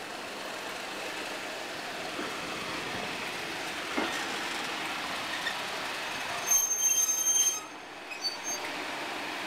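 Passenger coach of a slow-moving train rolling steadily over the rails, with a single knock about four seconds in. A high wheel squeal, the loudest sound, rings for about a second a little after halfway.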